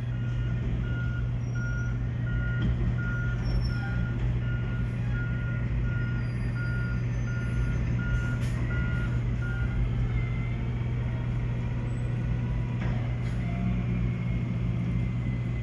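Garbage truck's diesel engine running steadily while its reversing alarm beeps at an even pace, about three beeps every two seconds; the beeping stops about ten seconds in and the engine keeps running.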